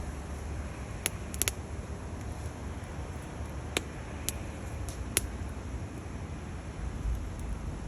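Split firewood burning in a stainless steel Bushbox XL twig stove, crackling with about six sharp, irregular pops over a low steady rumble.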